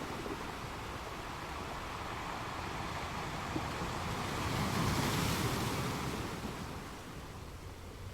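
Ocean waves breaking against rocks: a continuous wash of surf that swells to one louder crash about halfway through, then eases off.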